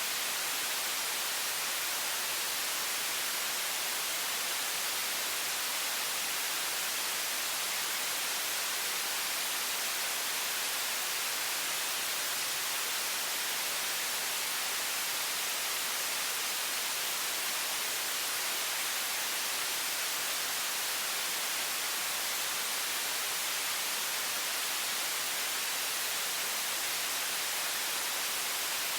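Steady, unbroken hiss of a high-pressure faucet stream of water, even in level and weighted toward high pitches.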